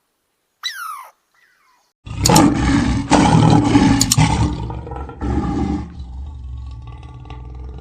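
A short high call falling in pitch about a second in, then a big cat's loud, rough roar that starts about two seconds in and fades away over the last couple of seconds.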